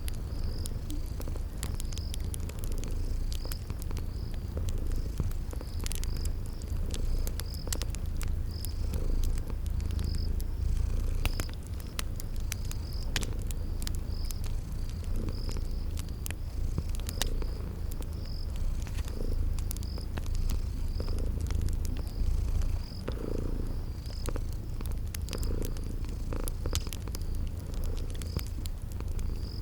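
Domestic cat purring steadily and close up, with fireplace crackles popping irregularly over it and crickets chirping in a steady repeated pattern.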